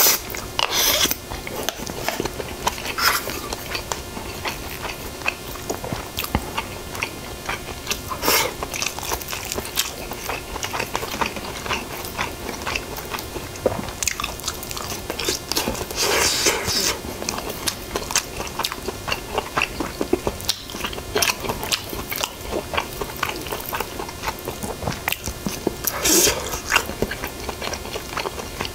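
Close-miked eating: a man chewing mouthfuls of young-radish-kimchi bibimbap and side dishes, with many small wet clicks and smacks and a few louder bursts several seconds apart, the biggest about halfway and near the end.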